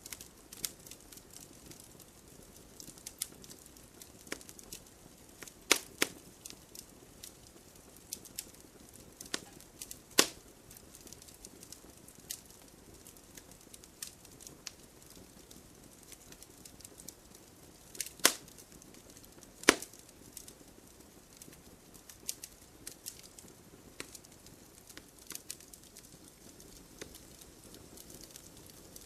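Wood campfire crackling: scattered sharp pops and snaps over a soft hiss, with a few louder snaps about six, ten, eighteen and twenty seconds in.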